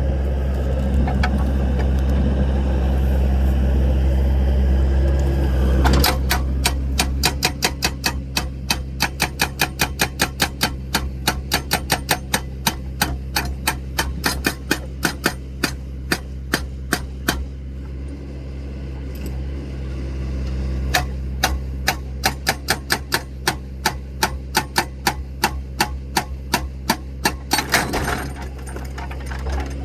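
Excavator's diesel engine running steadily, overlaid in two long stretches by a rapid, regular mechanical clicking at about three clicks a second.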